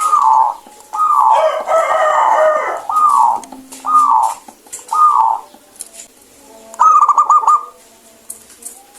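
Zebra dove (perkutut) song: a series of falling coos about once a second, with a longer, fuller call between about one and three seconds in, then a quick rapid run of short trilled notes near the end.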